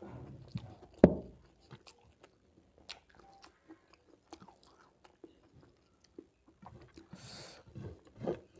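Close-miked chewing of rice and curry eaten by hand: wet mouth clicks and smacks, with one sharp, much louder smack about a second in.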